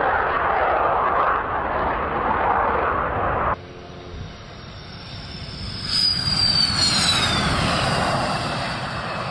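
MiG-29 fighter jet engines. A steady loud jet noise cuts off abruptly a few seconds in; after a quieter stretch a jet comes up loud again, its high whine falling in pitch as it passes.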